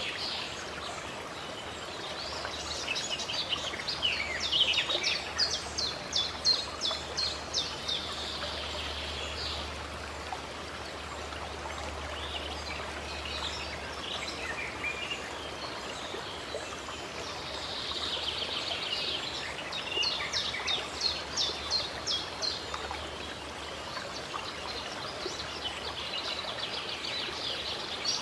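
Running water from a small spring or stream makes a steady rush throughout. Over it, songbirds sing in two bouts of quick, high repeated notes: one a few seconds in and another a little past the middle.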